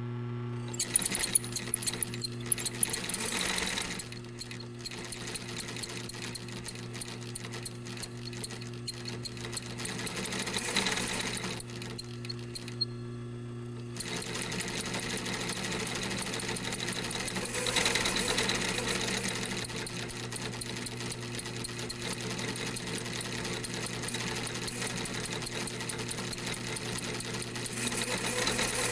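Industrial sewing machine stitching in runs, its motor humming steadily under a fast needle clatter. The stitching drops to the motor hum for a couple of seconds just before halfway, then runs on without a break.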